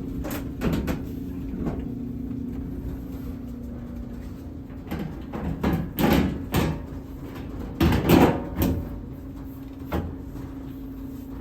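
Scattered clunks and rattles of hard parts being handled, a cluster of them about halfway through and another a little later, over a steady low hum.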